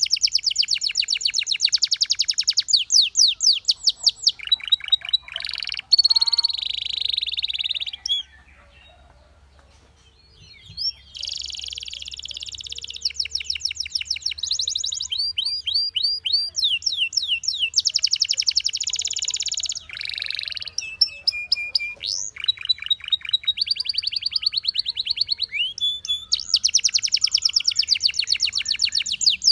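Domestic canary singing in long phrases of rapid repeated notes and trills, high-pitched, broken by a pause of about three seconds about a third of the way in.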